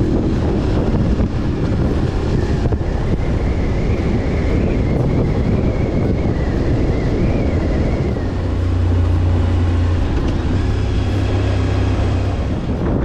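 Motorcycle engine running while riding, heard from on board with wind on the microphone; the low engine note grows stronger a little past halfway.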